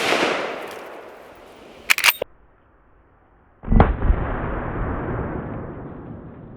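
Marlin lever-action .45-70 rifle shot, with its echo rolling away over about two seconds, a couple of short clicks about two seconds in, then a second loud rifle report about 3.7 seconds in, trailing off in a long echo.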